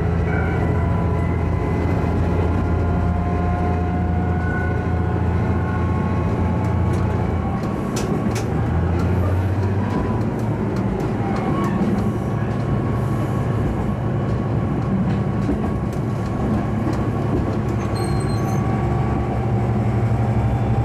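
Diesel railcar running along the line: a steady engine drone over wheel-on-rail noise, the engine note changing about seven or eight seconds in, with a few sharp clicks.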